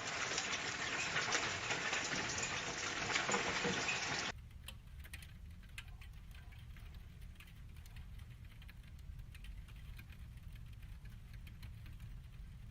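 Dense patter of small volcanic stones (lapilli) falling on hard surfaces, like heavy hail. It cuts off abruptly about four seconds in, leaving a quieter low hum with scattered light ticks of stones still landing.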